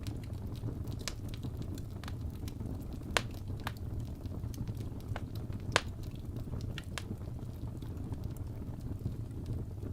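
Wood fire burning in a fireplace: a steady low rumble of flames with scattered sharp crackles and pops, two of them louder, about three seconds in and near six seconds.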